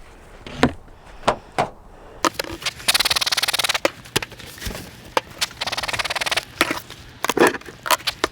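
Wooden beehive being opened with a hive tool: a scatter of sharp knocks and clicks, and two rasping scrapes about a second long each in the middle.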